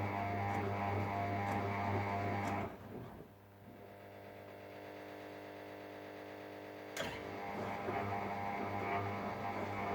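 Ariston Margherita washing machine tumbling a duvet in its cottons 60° main wash: the drum motor hums steadily, cuts out about three seconds in and winds down, then after a pause comes a click and the motor starts again, turning the drum at full hum.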